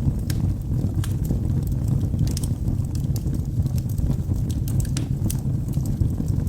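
Wood fire burning in a fireplace: a steady low rumble of flames with scattered sharp crackles and pops from the logs, several a second at irregular intervals.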